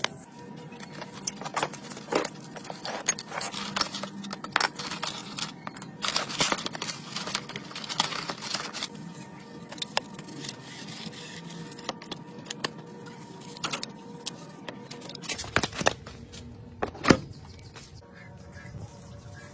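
Hand tools clinking and knocking on metal in irregular strikes, with one louder knock near the end.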